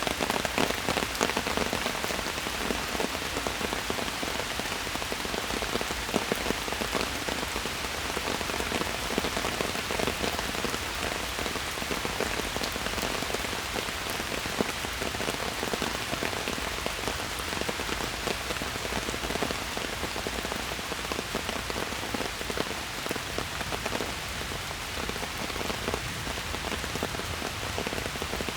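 Steady rain falling in a forest, a dense even patter of drops striking leaves and the ground, with many individual drip ticks.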